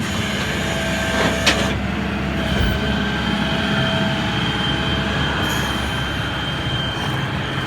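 Nissan 300ZX twin-turbo V6 running as the car pulls away. About five and a half seconds in there is a short high hiss, the HKS blow-off valve venting, which is called so loud.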